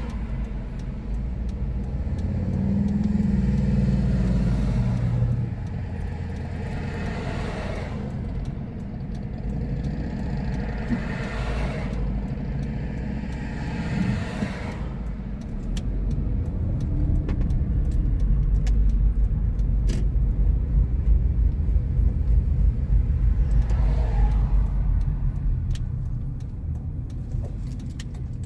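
Road and engine noise heard from inside a moving car: a steady low rumble with several louder swells of noise.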